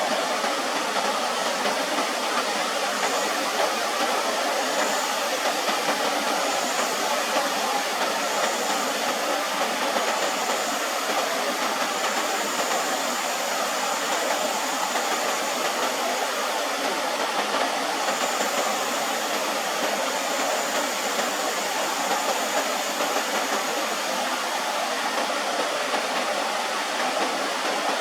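A steady, even rushing hiss with no breaks, and a faint thin high tone that comes and goes above it.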